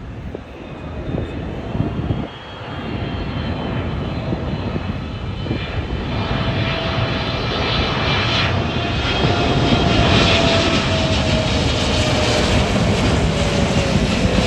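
Jet airliner engines growing louder as the plane approaches, then running loud and steady, with a whine that slowly falls in pitch as it passes.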